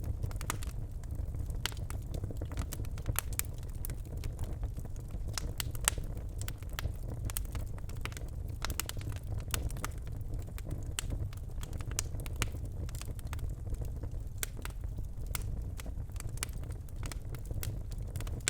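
Birch logs burning in a fireplace: a steady low rumble of the flames with irregular sharp crackles and pops, one louder pop about six seconds in.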